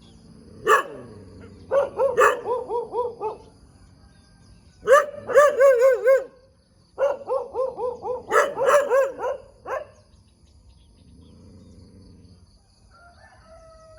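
Dogs barking in three bouts of sharp barks and wavering, drawn-out yelps, then a quieter stretch of a few seconds near the end.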